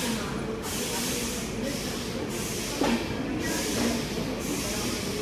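Express passenger train running along the track, heard from inside a coach: a steady rumble of wheels on rails with rushing air that swells and fades, and a single sharp knock about three seconds in.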